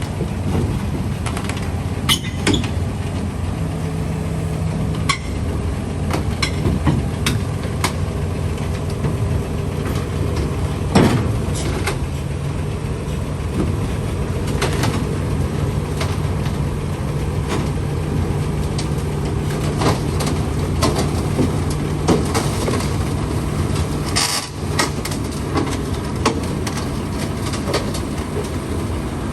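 Heavy dredging machinery's engine running steadily with a low hum, with scattered knocks and clanks, the loudest about eleven seconds in.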